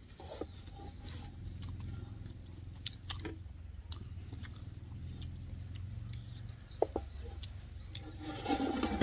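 A person chewing and biting into chicken lollipops, with scattered short crunchy clicks over a steady low hum. Two sharper clicks come about seven seconds in, and a louder burst of sound follows near the end.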